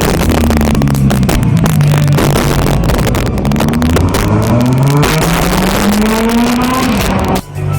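Sports car engine accelerating hard, its pitch rising in several long sweeps as it pulls through the gears. It cuts off abruptly near the end.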